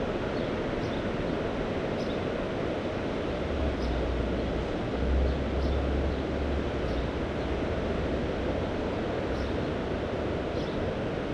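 Mediterranean sea waves washing steadily on the shore, with a low rumble of wind on the microphone swelling about four seconds in and easing off a few seconds later.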